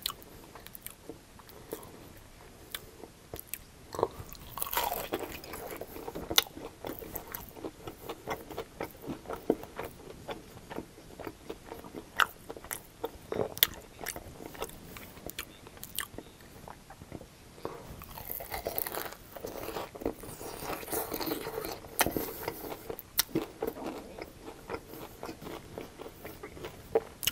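Close-miked crunching and chewing of crispy fried breaded chicken wings: sharp crunches from bites all through, thickening into two stretches of dense crunchy chewing, about five seconds in and again about twenty seconds in.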